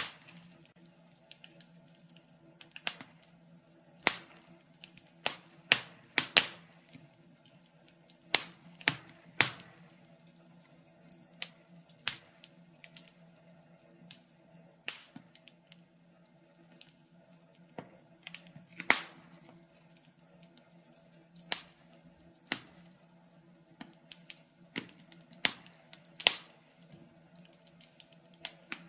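Wood fire crackling in a fireplace: irregular sharp pops and snaps, a dozen or so standing out louder, over a faint steady hum.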